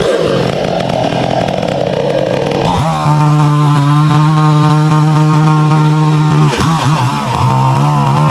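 Chainsaw bucking a downed pine into log sections. The engine runs unevenly at first, then settles into a steady high-revving note about three seconds in, dips briefly near six and a half seconds, and revs again.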